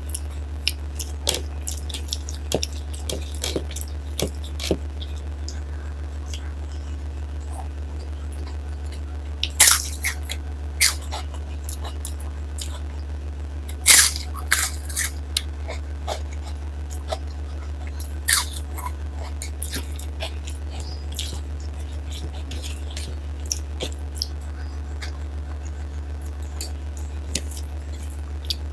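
Close-miked eating sounds of a person eating dal and rice by hand: chewing and mouth smacks, with louder crunching bursts about ten and fourteen seconds in, over a steady low hum.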